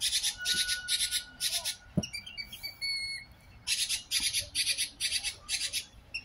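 Birds calling: two runs of rapid, harsh, high-pitched calls at about four a second, with thin whistled notes between them. A soft knock comes about two seconds in.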